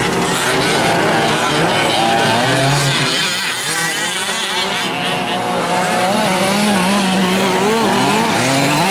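Several 5th-scale gas RC trucks' small two-stroke engines racing together, each revving up and down so their overlapping pitches rise and fall constantly.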